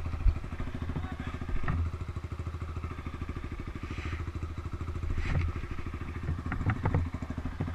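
Off-road quad or dirt-bike engine running at a steady speed, its exhaust pulsing evenly, with a few short knocks and clicks over it.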